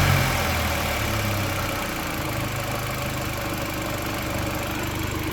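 Audi TT 1.8T turbocharged four-cylinder engine (AUQ) dropping back to idle as the throttle is released, settling over the first two seconds into a steady warm idle, the state in which it is being checked for a ticking, rattling noise.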